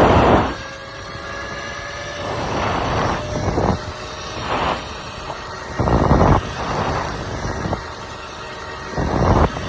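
Wind rushing over the microphone of a moving e-bike, surging in irregular gusts.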